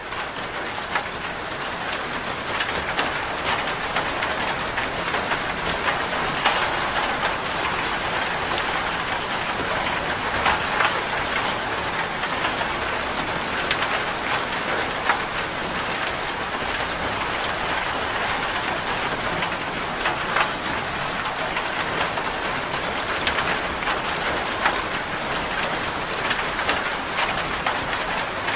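Steady rain falling on a surface, a dense patter of drops with scattered sharper individual drop ticks.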